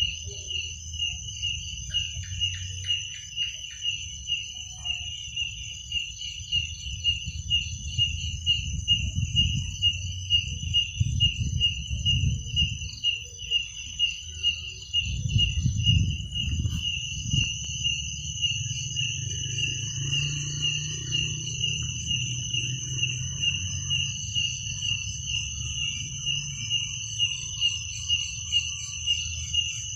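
Crickets chirping: one loud cricket pulses in a steady rhythm, with a higher, steadier insect trill behind it. Underneath is a low rumble that swells about a third of the way in.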